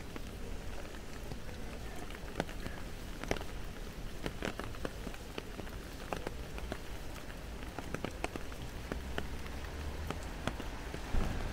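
Rain falling on a wet paved street: a steady hiss with scattered, irregular sharp taps.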